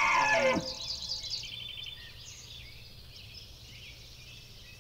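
Songbirds chirping faintly, with a quick high trill about a second in, over a steady low hum. In the first half second, the tail of a long call with overtones slides down in pitch and stops.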